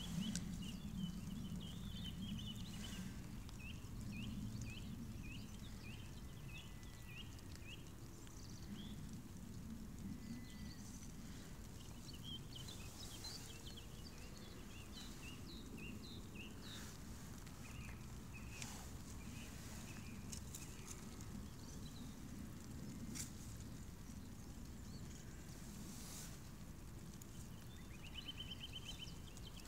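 Outdoor ambience: a steady low rumble with a small bird repeating short high chirps, about two a second, in two spells. A few sharp clicks come from handling of the thin aluminium wind shield.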